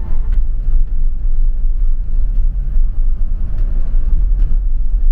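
A loud, steady low rumble with a fluttering level.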